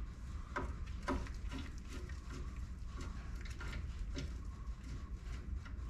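A few light clicks and knocks of hands and tools handling the rammer, over a steady low hum.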